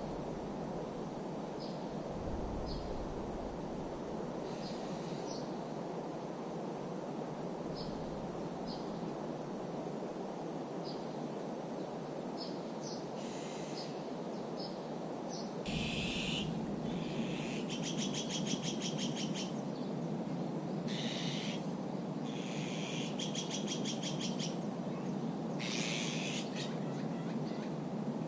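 Small birds calling and singing over a steady outdoor hiss. In the first half there are sparse short high chirps. From about halfway, louder song phrases with fast trills repeat every couple of seconds.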